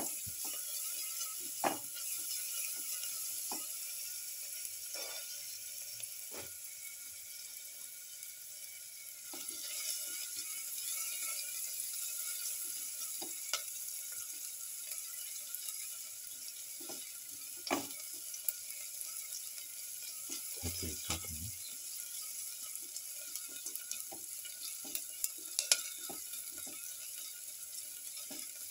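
Sliced shallots sizzling in hot oil in a pan, with a spatula scraping and clicking against the pan at irregular moments as they are stirred.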